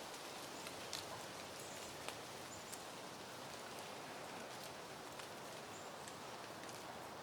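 Soft wind rustling through foliage and peony blooms, a steady hiss with a few faint light ticks scattered through it.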